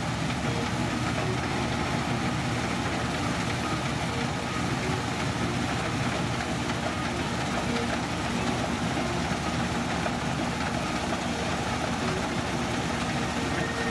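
New Holland 8060 combine harvester running steadily, a continuous engine and machinery drone with no change in pitch or load.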